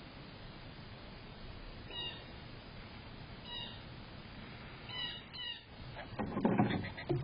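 A bird gives four short, nasal, meow-like calls spaced a second or so apart. Near the end a louder, lower, noisier sound sets in.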